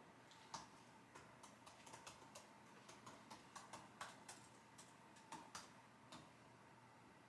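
Faint typing on a computer keyboard: irregular key clicks, stopping about six seconds in.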